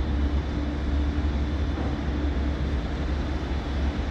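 Steady low rumble of railway station platform noise from trains running and standing at the platforms, with a faint hum that fades out about two seconds in.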